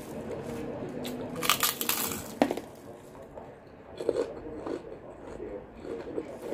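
A person chewing a mouthful of food close to the microphone. There is a short crackly burst about one and a half seconds in and a sharp click just after it, then softer wet chewing sounds.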